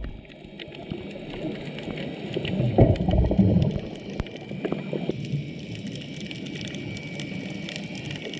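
Underwater sound of a scuba dive: a steady fine crackling, with a louder gurgling rush of bubbles about two and a half seconds in that lasts about a second.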